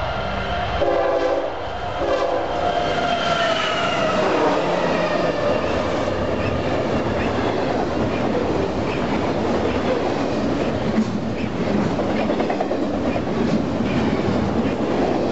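Union Pacific freight locomotives passing close by with the horn sounding, its pitch sliding down as they go past. Then a long intermodal train rolls by with steady wheel noise and clickety-clack over the rail joints.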